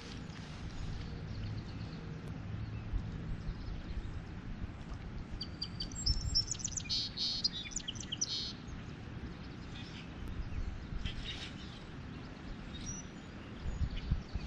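A songbird singing a quick run of short high notes about halfway through, with fainter calls later, over a low rumble of wind on the microphone.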